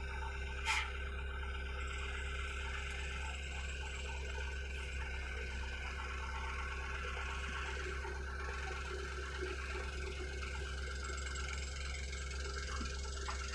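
Hitachi mini excavator's diesel engine running steadily at a constant speed, with one sharp click less than a second in.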